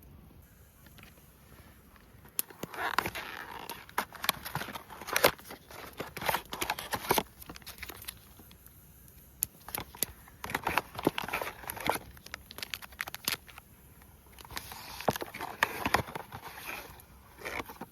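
Rustling, crinkling and clicking handling noises in three bouts, with short pauses between them.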